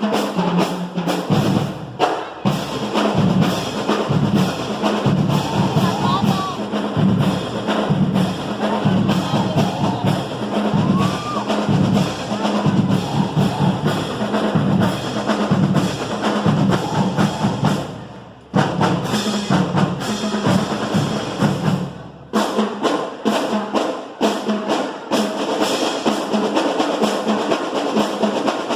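A school marching band playing, its drums and percussion beating out a dense, steady rhythm under a low pitched line. The music drops out briefly about 18 seconds in and again about 22 seconds in.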